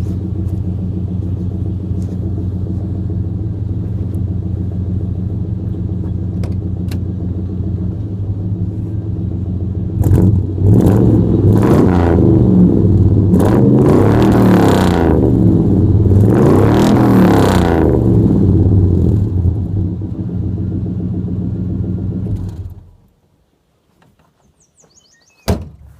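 1990 GMC K1500's 350 small-block V8 through a true dual exhaust with Jones mufflers and no catalytic converters, idling steadily, fairly quiet, then revved up several times and let fall back to idle before it is switched off and stops abruptly. A single sharp knock follows near the end.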